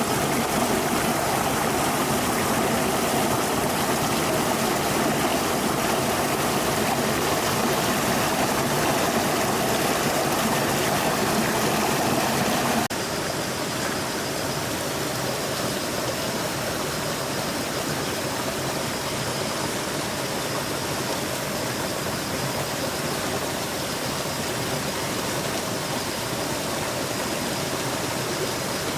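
Stream water flowing steadily. About thirteen seconds in the sound cuts abruptly to a slightly quieter flow with a different character.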